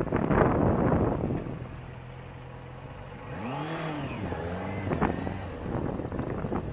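Police motorcycle engine running with wind rushing over the microphone at first, then revving up and back down twice in quick succession.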